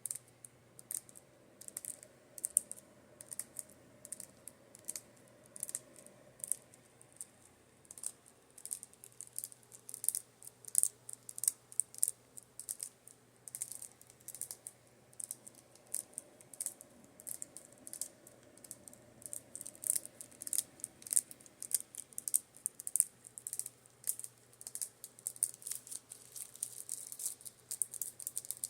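Makeup brushes being tapped in quick, irregular, crisp clicks. Under them an oscillating fan hums faintly, its sound swelling and fading as it turns.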